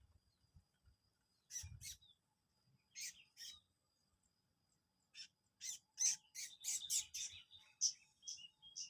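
Prenjak lumut, a small Indonesian songbird, giving short sharp high chirps: a pair about a second and a half in, another pair at about three seconds, then a fast run of chirps from about five seconds on. This is the call used as a bird-lure ('pikat') sound.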